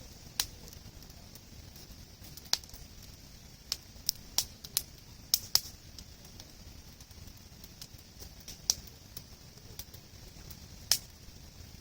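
Wood campfire crackling: irregular sharp pops and snaps, bunched together about four to five seconds in, over a steady hiss.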